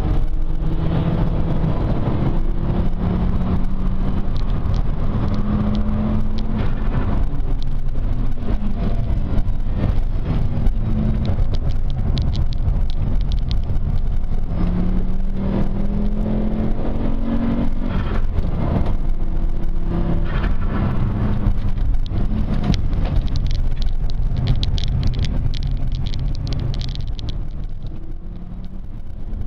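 In-cabin sound of a 1996 Volvo 850 T-5's turbocharged five-cylinder engine driven hard on track, its pitch rising and falling repeatedly through acceleration and gear changes over a heavy rumble of road noise. The engine eases off and the sound drops near the end.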